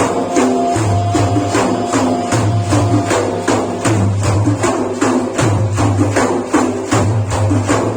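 Sufi frame drums (daffs with jingles) beating a steady, fast rhythm of about three strokes a second, with sustained low tones underneath, in the instrumental interlude between sung verses of a madih.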